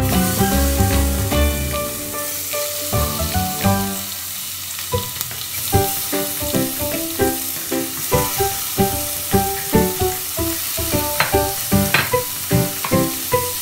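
Oil sizzling in a stainless steel pot as slices of raw red grouper are laid into it, over background music with a plucked melody.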